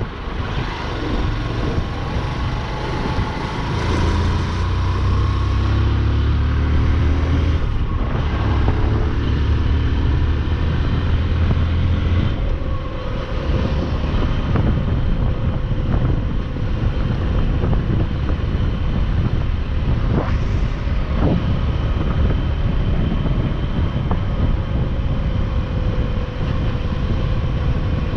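Motorcycle engine running on the move, with wind and road noise over the microphone. Its pitch rises and falls in the first few seconds, then it runs fairly steadily.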